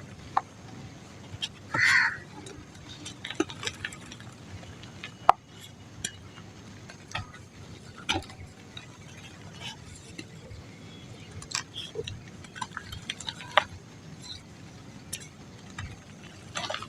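Dry mud crumbling, with scattered small crackles and ticks and a louder crunch about two seconds in.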